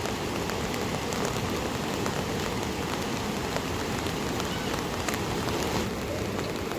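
Steady rain falling, with scattered drops ticking sharply on a hard surface.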